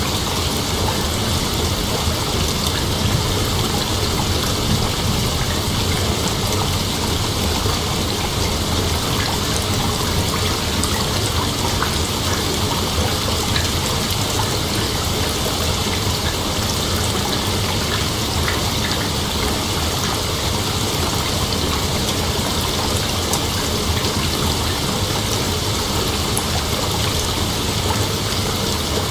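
Steady rain with a night insect chorus: an even hiss that does not change, with high, constant bands above it.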